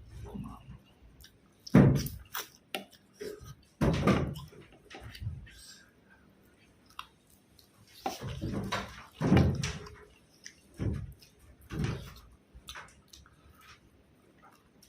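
A person eating close to the microphone: chewing and mouth sounds in irregular bursts, a few of them much louder than the rest, with short quiet gaps between.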